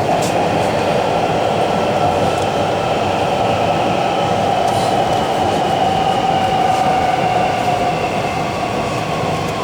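Inside a CNR Changchun DKZ47 metro car running between stations: a steady rumble of wheels on rail overlaid with steady whine tones from the SATEE Optonix IGBT-VVVF traction equipment, one of which sinks slightly in pitch near the end.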